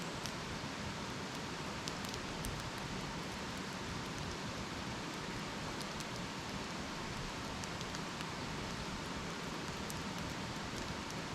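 Wood campfire burning with a steady hiss, broken by scattered sharp crackles and pops.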